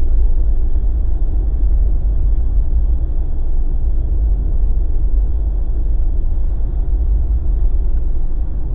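Jeep driving at a steady pace: an even low rumble of tyres and engine with no change in speed.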